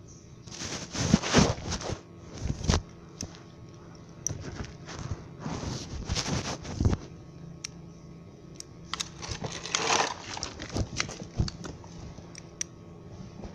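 Irregular clicks, knocks and short rustling scrapes of parts and tools being handled during a pressure washer repair, with the loudest handling bursts in the first few seconds and again near the middle.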